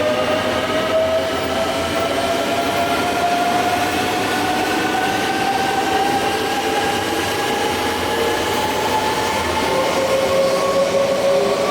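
East i (E926) Shinkansen track-inspection train pulling away, its traction motors whining in several tones that climb steadily in pitch as it accelerates; a new, lower tone comes in near the end.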